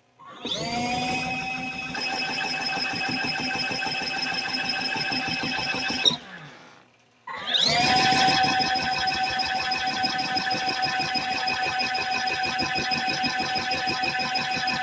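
Spin motor of a portable mini washing machine whining as it spins a shirt to wring the water out. It spins up twice, its pitch rising to a steady whine each time, with a short stop about six seconds in.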